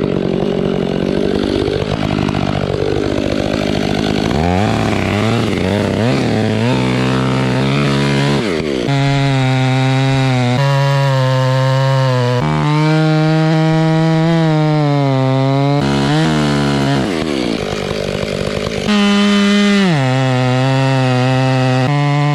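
Two-stroke Stihl chainsaw running hard, cutting into a tree trunk. Its engine pitch sags as the chain loads up in the wood and rises again as it frees up, several times over, with a brief higher rev about nineteen seconds in.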